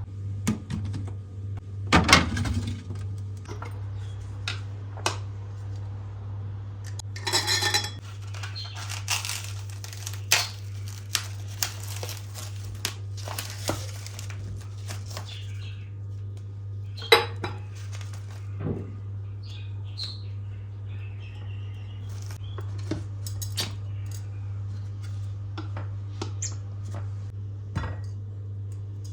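Containers and kitchenware being handled and set down, giving scattered clinks, taps and knocks, with a stretch of rustling about a third of the way in. A steady low hum runs underneath.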